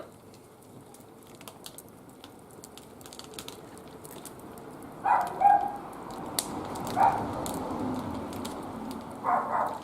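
Wood fire burning in a barbecue grill, with scattered sharp crackles and pops over a low rushing noise. Short vocal sounds break in about 5, 7 and 9 seconds in.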